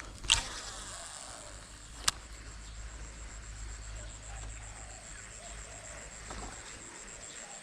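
A steady, high-pitched insect trill over a low rumble of wind on the microphone, with a sharp click just after the start and a louder one about two seconds in.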